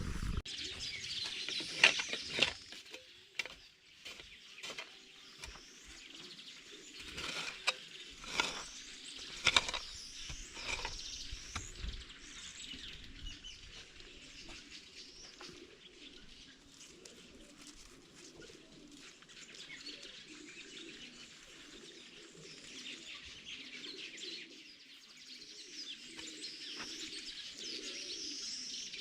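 Birds chirping, with doves cooing low in the background, mostly through the second half. Sharp knocks come every second or so through the first dozen seconds.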